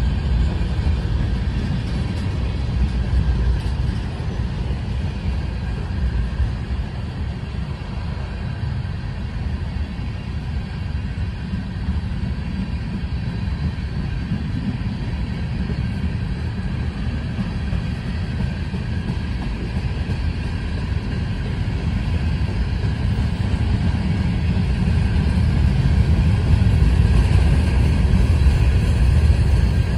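Cars of a passing freight train rolling by: a steady low rumble of wheels on rail, growing a little louder near the end.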